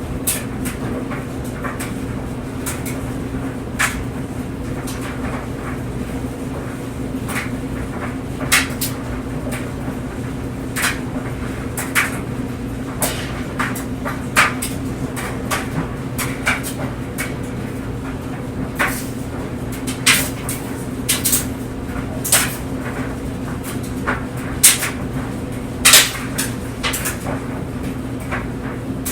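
Clothes dryer running with clothes tumbling in the drum: a steady hum, broken by irregular clicks and knocks as the load drops against the drum, several louder knocks about two-thirds of the way in.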